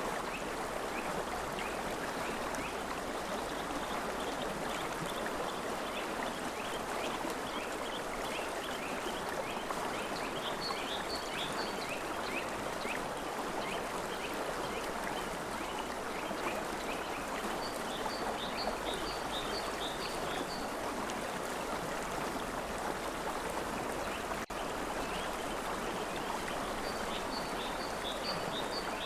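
River water flowing with a steady, continuous rush. Above it runs a series of short, high chirps repeated several times a second, typical of small birds singing at the riverside.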